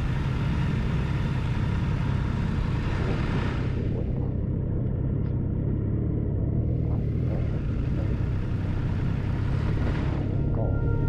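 Motorcycle on the move: a steady low engine drone under wind and road hiss. The hiss thins out about four seconds in and builds again near the end.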